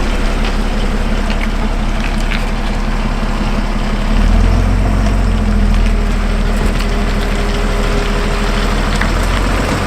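Fire engine's engine running steadily, louder for a stretch from about four seconds in, with scattered crackles and snaps from burning wood over it.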